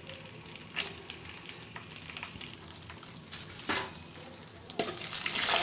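Cashew nuts and raisins gently sizzling in hot oil in an aluminium kadai on a low flame, a steady frying hiss with a few sharp ticks, swelling louder near the end.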